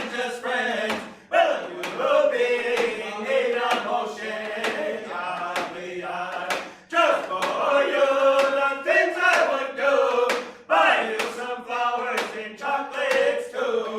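A Native American drum group's song: several male voices chanting together over steady drum beats, with short breaks between phrases.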